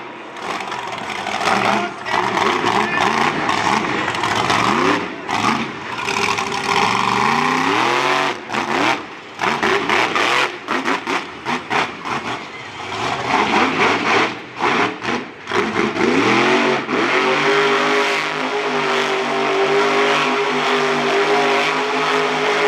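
Monster truck engine revving hard, the throttle repeatedly snapped on and off in short gaps. The pitch climbs steeply twice, about a third of the way in and again past the middle, then holds at high revs near the end.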